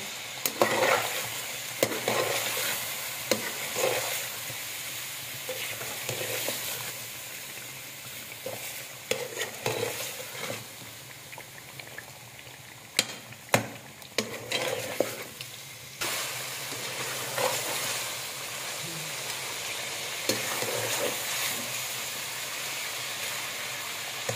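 Chicken pieces and ground spices frying in oil in a metal pot, sizzling steadily while a spatula stirs them. The spatula scrapes and knocks against the pot, with a couple of sharper knocks about halfway through.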